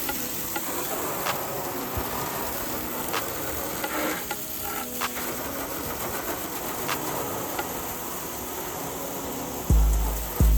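Steady hissing noise with a few scattered clicks, then deep bass notes of music come in strongly near the end.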